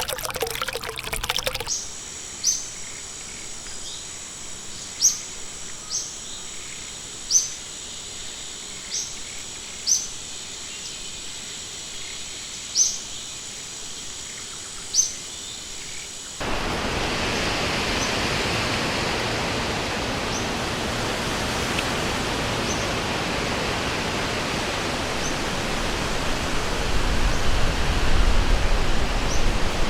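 After a brief trickle of water, short high bird chirps sound every second or two over a thin, steady high tone. About halfway through, this switches suddenly to the steady rushing of a river, with faint chirps still above it.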